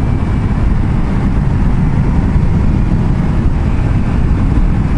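Car driving along a highway: a steady, low rumble of road and engine noise heard from inside the moving car.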